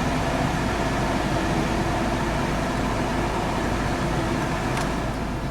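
Steady whoosh of the climate-control blower fan inside the cabin of a 2010 Mini Cooper S, with the engine idling under it. A faint click comes near the end.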